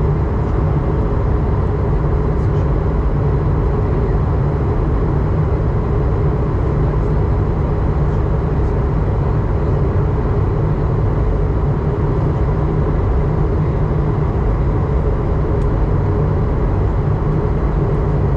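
Steady cabin drone of an Airbus A220-100 airliner in flight: a constant low rush of airflow and engine noise, heaviest in the bass.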